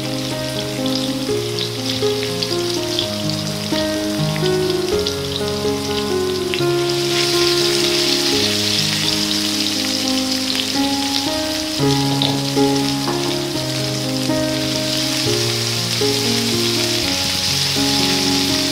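Ground spice paste sizzling in hot oil in a frying pan as it is sautéed until fragrant, with small crackles early on and the sizzle getting louder about seven seconds in. Instrumental background music plays throughout.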